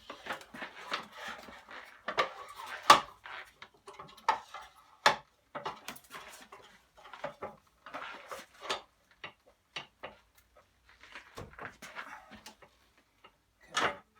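Irregular metallic clinks, rattles and knocks of bolts and hand tools on the outboard's lower unit as it is fitted, with one louder knock about three seconds in.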